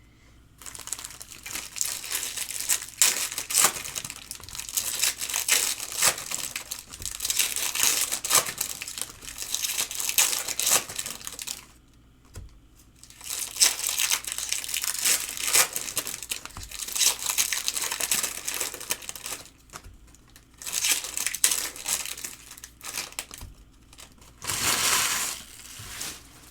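Wrappers of 2022 Topps Stadium Club Chrome card packs being torn open and crinkled. It comes in stretches of several seconds, with short pauses near the middle and about three quarters of the way through.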